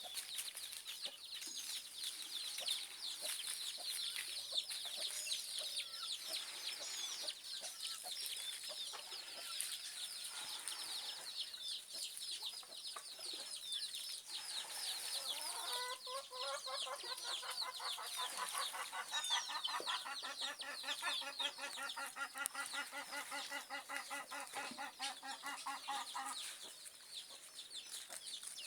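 Caatinga cacholotes (casacas-de-couro) and other birds calling and chattering. About halfway through, a loud, rapid, pulsed chattering call starts, runs for around ten seconds and breaks off.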